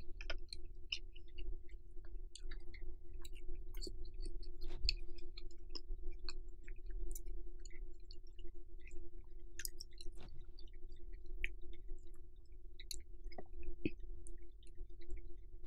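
Close-miked chewing of a grilled pork and lettuce wrap: many small, scattered mouth clicks over a steady low hum.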